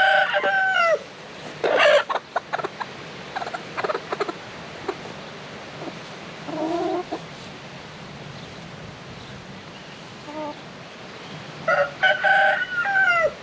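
Chickens clucking and squawking, with a rooster crowing twice: one crow ending about a second in and another near the end.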